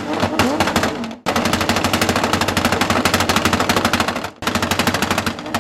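Loud vehicle engine running with a rapid, even train of sharp crackling bangs from the exhaust, its pitch gliding early on, breaking off briefly twice.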